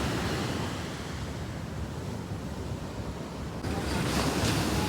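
Ocean surf washing in steadily, with wind buffeting the microphone. A little after three seconds in, the sound cuts abruptly to a different, brighter rushing noise.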